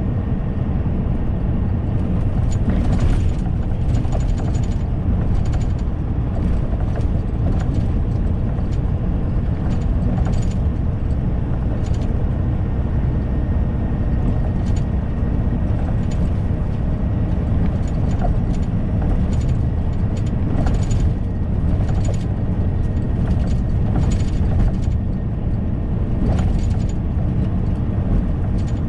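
Inside a semi-truck's cab while driving: a steady low rumble of engine and road, with irregular light rattles and clicks throughout.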